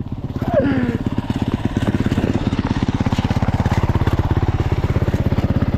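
Honda CRF450R dirt bike's single-cylinder four-stroke engine idling with a steady, fast, even putter.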